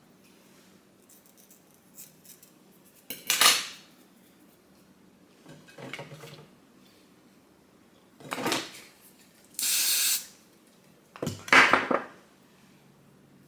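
Objects being handled, with about five separate bursts of clattering and rustling a second or two apart, like dishes or utensils being moved about.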